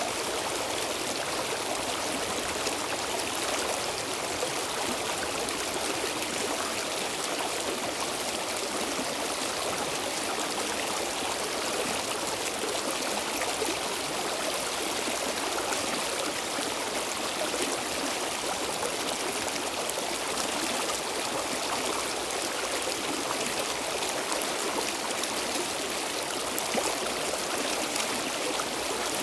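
Stream water flowing steadily, a continuous rushing and splashing with fine bubbling detail.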